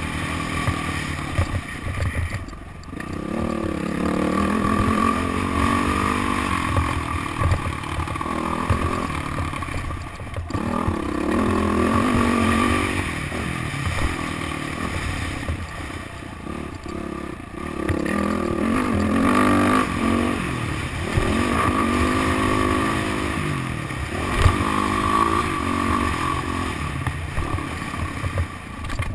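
Motocross bike engine heard from on board, revving up and falling back with the throttle over and over, with a few short drops where the throttle is shut. A rattling clatter from the bike runs underneath.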